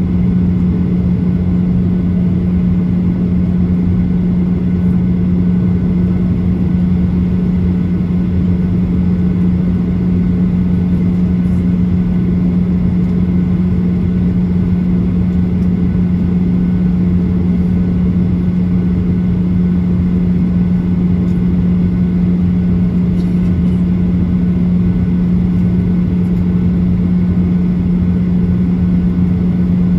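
Steady cabin drone inside a Boeing 737-800 on the ground, a constant low hum over a low rumble.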